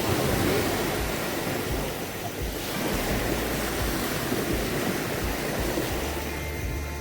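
Sea surf washing on the shore in a steady, even rush, with wind gusting on the microphone.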